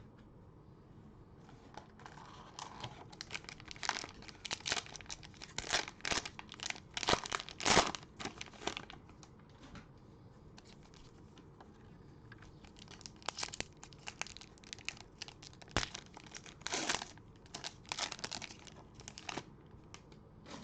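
Cellophane wrapper of a trading-card cello pack being torn open and crumpled, in two spells of rapid crinkling with a short lull between.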